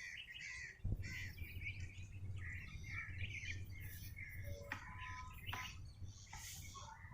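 Small birds chirping and twittering in the trees, many short calls overlapping throughout.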